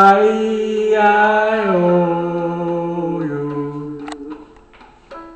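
A man's voice singing long held vowels as a voice exercise, stepping down in pitch a few times and fading out about four seconds in.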